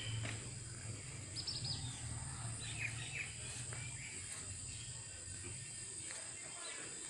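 Outdoor ambience with birds chirping in short calls a few times, over a steady low rumble that fades about five seconds in.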